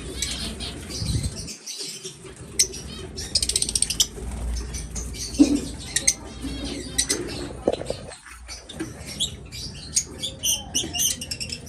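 Many small caged birds chirping and twittering in an aviary, with a quick rapid trill about three seconds in.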